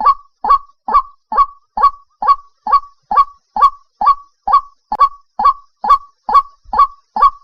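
White-breasted waterhen calling: a short, harsh note repeated steadily about twice a second in an unbroken series. This is a recorded call of the kind played to lure waterhens for trapping.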